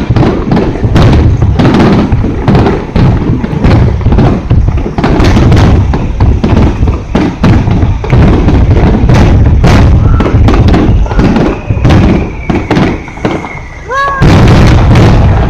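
Aerial firework shells bursting in rapid succession, their booms overlapping almost without a break. There is a brief lull shortly before the end, then the bursts resume.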